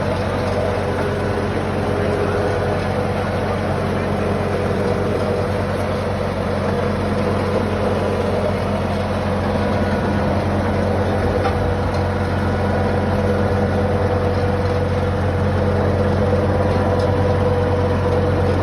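Diesel tractor engine running steadily under load, driving an old brick-making machine, with the engine note getting slightly louder near the end.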